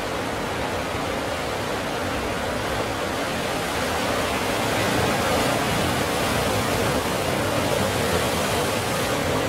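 Ocean surf on a rocky coast: a steady rushing of breaking waves that swells a little about halfway through.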